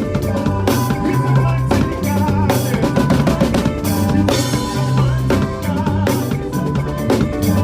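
Drum kit playing a fast makossa groove, with bass drum, snare and rimshots, over a band with bass guitar.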